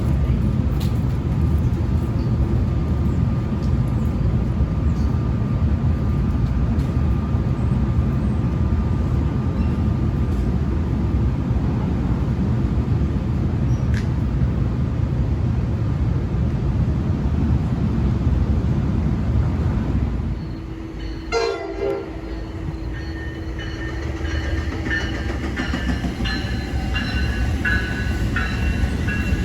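Passenger train passing at speed on a main line: a loud, steady rumble of wheels on rail that cuts off suddenly about twenty seconds in as the train clears. After it, quieter short high-pitched squeals from the tracks.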